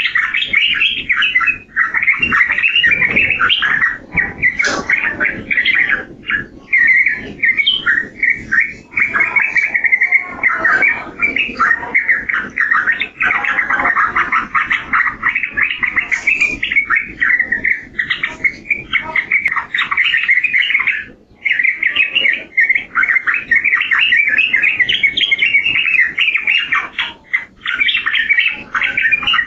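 Yellow-vented bulbul (trucukan) singing a fast, continuous run of chattering, bubbling notes with hardly a pause, breaking off only briefly about two-thirds of the way through and again near the end.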